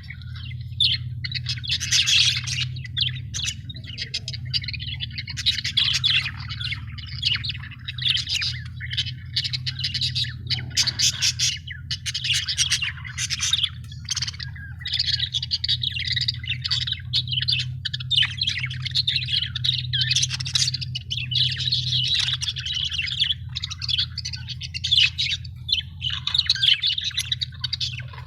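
Several budgerigars chirping continuously, a dense run of short, high calls with no pauses, over a steady low hum.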